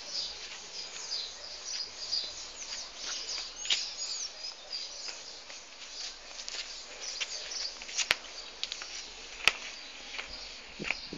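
Small birds chirping busily in many short, high calls, with two sharp clicks about a second and a half apart late on.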